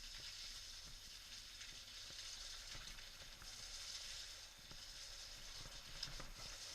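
Steady hiss of heavy rain, with scattered light ticks of drops.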